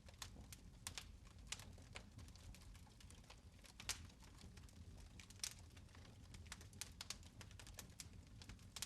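Fire in a fireplace crackling: irregular sharp pops and crackles, several a second, over a low steady rumble, with a louder pop about four seconds in and again about five and a half seconds in.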